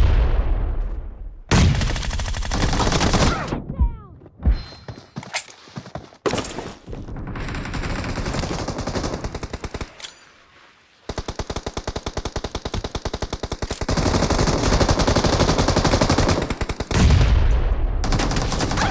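Video-game gunfire: a few loud shots and short bursts, then from about eleven seconds in a long run of rapid automatic fire, roughly ten shots a second.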